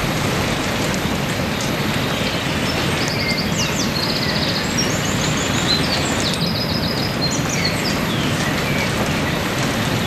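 Heavy rain falling steadily, with birds calling over it in short, high, quickly repeated notes from about three to eight seconds in.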